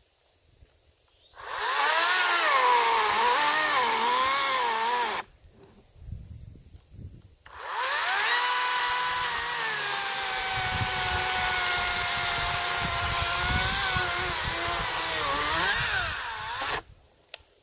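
Greenworks 40-volt battery chainsaw cutting pine logs. Its electric motor whine sags and wavers in pitch under load for a few seconds, then stops. After about two seconds it spins up again and cuts steadily for about nine seconds before stopping abruptly.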